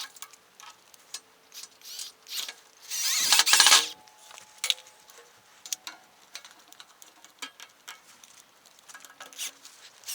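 Metal clicks, knocks and scraping from brackets and fasteners being fitted to a steel welding table, with a louder rasping scrape about three seconds in.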